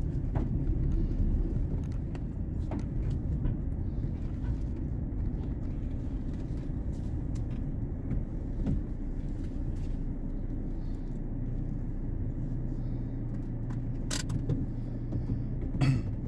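Engine and road noise heard from inside a moving vehicle's cab: a steady low rumble, with two sharp clicks near the end.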